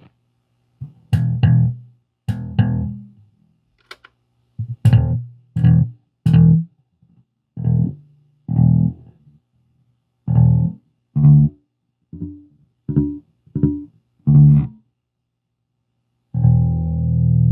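Fender Jazz Bass played through an MXR M175 digital delay into an Orange Crush bass amp. It plays about a dozen short, clipped notes, each cut off into silence, then a held note that rings out near the end.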